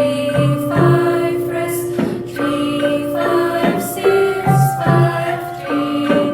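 Malay gamelan ensemble playing: bronze metallophones struck in a steady melody, each note ringing on, over a repeated low pulse, with voices singing along.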